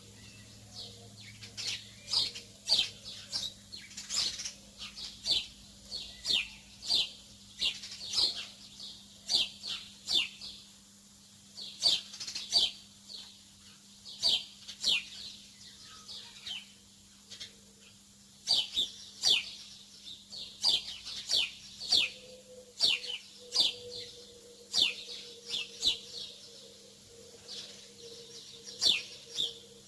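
Small birds chirping: quick, high, downward-sliding chirps, several a second in clusters with short pauses between them, over a faint steady low hum.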